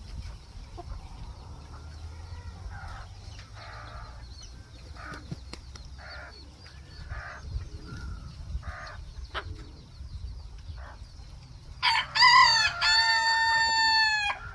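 Phoenix bantam rooster crowing once, loudly, starting about twelve seconds in and lasting a little over two seconds. Before that, faint short clucks repeat about once a second.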